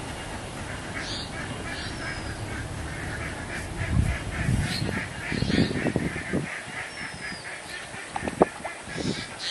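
Birds calling outdoors: a call repeated evenly about three or four times a second, with a few higher chirps now and then. Around the middle there is a louder stretch of low rustling or handling noise, and a sharp knock comes near the end.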